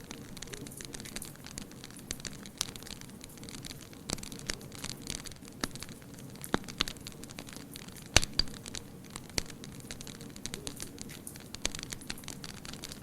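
Wood fire crackling, with irregular sharp pops over a steady low hiss, the loudest pop about eight seconds in.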